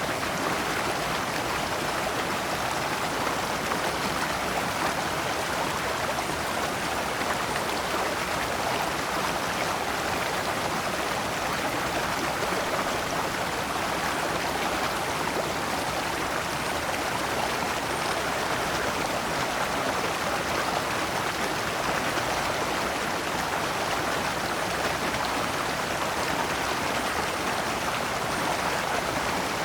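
Shallow stream running over large rocks in small cascades, a steady, even rush of water.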